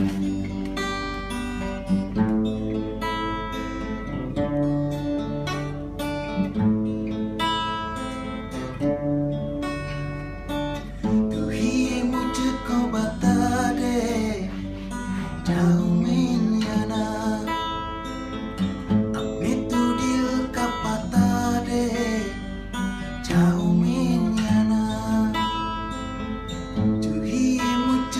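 Acoustic guitar playing a song, strummed and picked; a singing voice comes in about twelve seconds in and carries on over the guitar.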